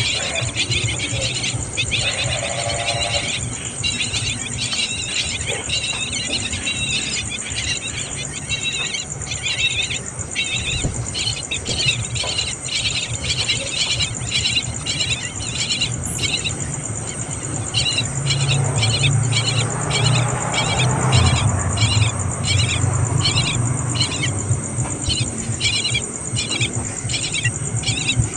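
Small bird chirping in a long series of short, high calls, busier at first and then about one or two a second, over a steady low rumble.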